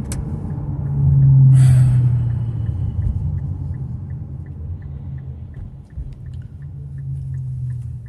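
Twin-turbo 3.0 V6 of a 2018 Infiniti Q50 with muffler-deleted exhaust, a steady low drone under way that swells about a second in and then eases, with a short rushing burst near two seconds in and a light ticking about three times a second after it. The car carries a whistle-like hum that has grown more pronounced, which the owner cannot tell apart from normal turbo spool or a failing turbo bearing or seal.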